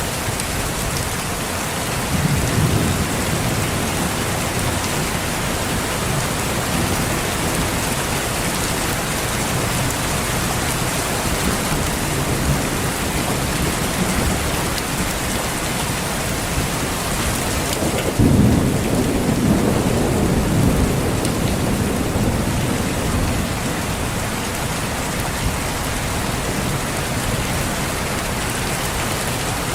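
Steady rain falling, with rolls of thunder rumbling under it: a light roll about two seconds in and a heavier one about eighteen seconds in that fades over several seconds.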